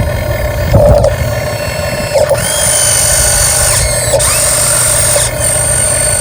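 Electric drive motor and gearbox of an RC dump truck whining steadily as it drives, its pitch gliding briefly a couple of times as the throttle changes.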